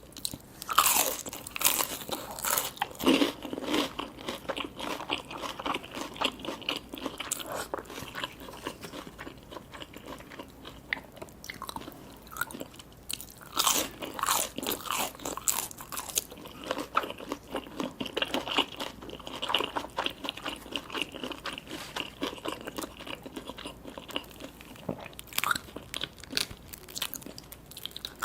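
A person biting and chewing crunchy food close to the microphone: loud crisp bites, each followed by rounds of wet, crackling chewing.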